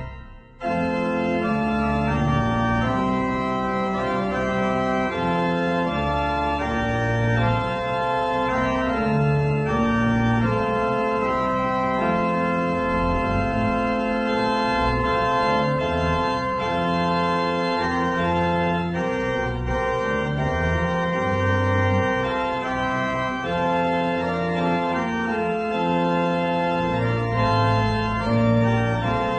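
Organ playing sustained, slowly changing chords with a moving bass line, as closing music after the service. The sound drops out briefly just after the start, then continues.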